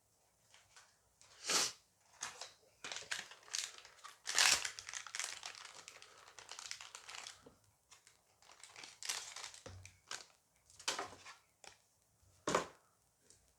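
Foil booster pack being torn open and crinkled by hand, in a string of irregular rustling bursts with a couple of sharper crackles.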